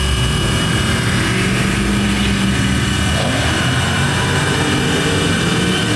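An engine idling steadily, with a constant low hum and a steady whine of several tones above it.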